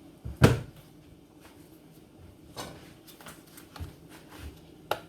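A single knock about half a second in, then a few light scattered taps and clicks, like utensils and containers being handled while cooking.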